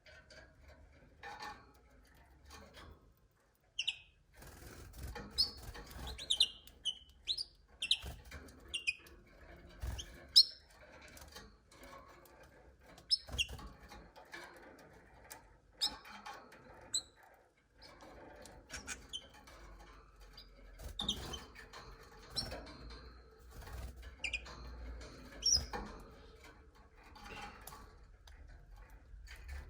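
Canaries chirping in short, scattered call notes, mixed with irregular clicks and rustles.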